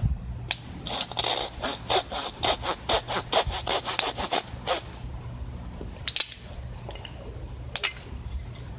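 Hand saw cutting firewood: quick back-and-forth strokes, about four a second for some four seconds, then stopping. Two sharp knocks follow later.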